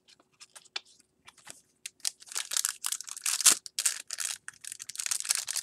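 Crinkling and tearing of a trading card pack's wrapper as it is opened and handled, in quick, dense rustles that grow louder about two seconds in.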